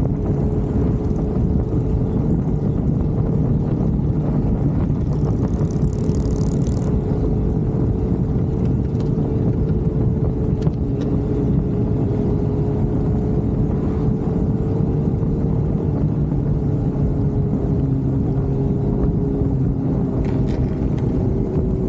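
Motorcycle engine running steadily at cruising speed, with road and wind rumble; the engine note sinks a little past the midpoint.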